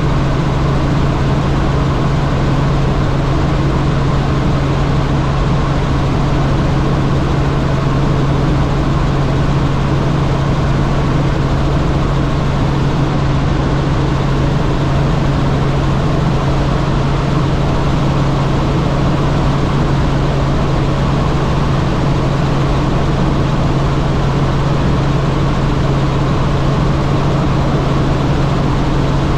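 Helicopter in flight: a loud, steady drone of rotor and turbine with a constant deep hum underneath.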